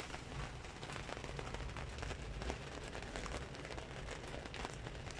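Heavy rain falling on a tricycle's canopy roof: a steady, dense patter of many small drop hits.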